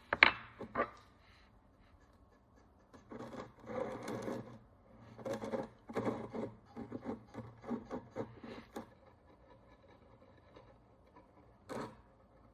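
Hand tools scraping and picking at the corrosion crust on an ancient Roman bronze coin, in short irregular scratchy strokes. There are a few sharp clicks, one at the start and one near the end.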